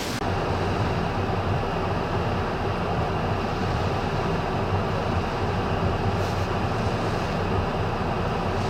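Hurricane-force wind blowing as a steady, dull rumble without gust buffeting.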